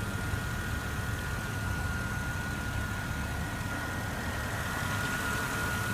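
Car engine idling: a steady low rumble with a thin, steady whine above it.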